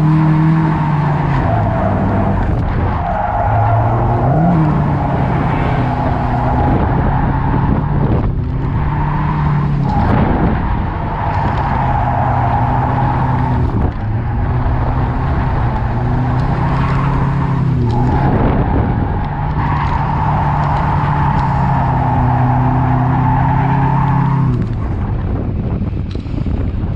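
Drift car engine held at high revs with tyres squealing through long slides. The engine note drops briefly every few seconds between slides.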